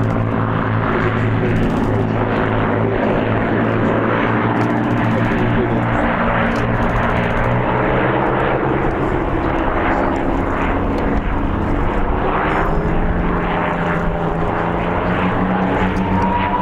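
Propeller-driven piston-engined aircraft flying past, a steady engine drone whose pitch drops a few seconds in as it passes, with a rising engine tone near the end.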